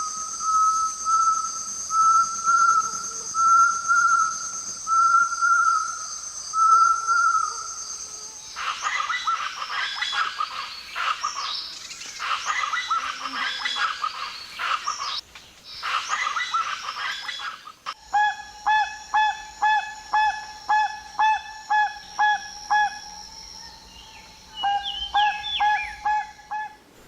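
Birds calling in three successive recordings. First comes a series of clear pitched notes about a second apart, then denser, harsher calls that sweep downward, then a fast, even run of repeated notes. A steady high-pitched buzz sits behind the first and last recordings.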